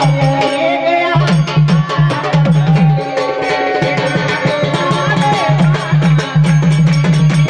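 Marathi Waghya folk devotional music: sambal drums played in a fast, steady rhythm under an organ melody.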